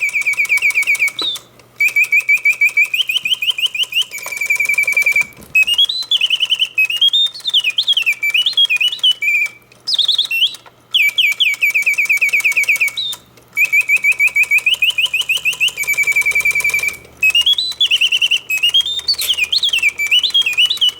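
Vintage Reuge double singing bird cage's mechanical birdsong, from its bellows-driven whistle: fast, evenly pulsed chirp trills and quick rising-and-falling warbles, in phrases broken by short pauses, the whole song repeating about every eleven seconds. The freshly serviced mechanism is running in continuous mode, singing at full voice.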